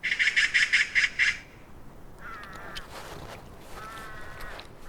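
Ravens calling at a kill: a fast, harsh rattle of about six pulses a second for a second and a half, then two longer calls.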